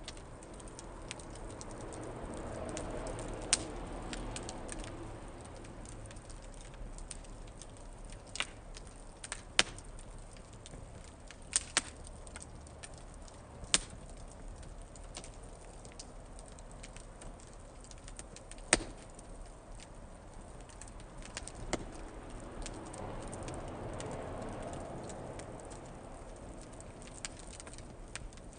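Small wood-and-newspaper fire burning in a fire pit: irregular crackles and sharp pops, a few of them loud single cracks, over a low rushing noise that swells twice, a few seconds in and again near the end.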